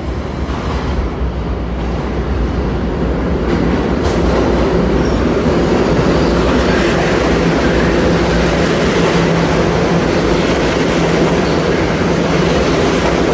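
R211 subway train pulling into the station, its wheels rumbling and clattering on the rails. The sound grows louder over the first few seconds, then holds steady and loud.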